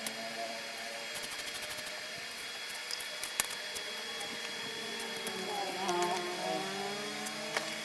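Washing machine motor driving a homemade coconut grater, running steadily with a constant high whine. About six seconds in its pitch dips and recovers. There is a quick run of ticks about a second in and a few sharp clicks.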